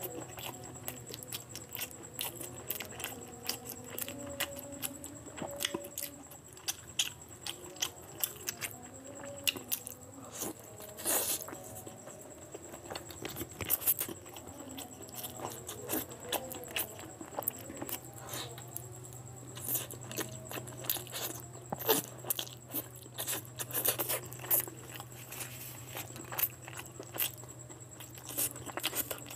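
Close-miked eating sounds: a man biting and chewing curried mutton nalli (mutton shank on the bone), many short wet clicks and smacks of the mouth, over a steady low hum.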